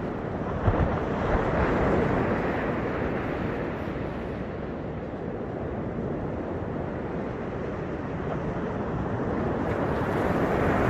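Ocean surf breaking and washing up the beach. It swells about a second in, eases off, then builds again near the end as the next wave comes in.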